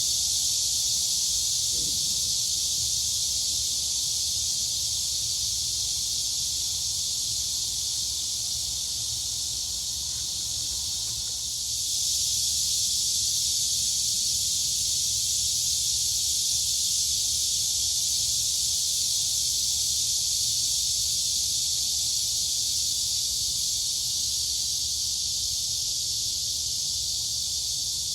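A chorus of crickets and cicadas making a steady, dense, high-pitched shrill drone. It eases slightly, then swells back about twelve seconds in.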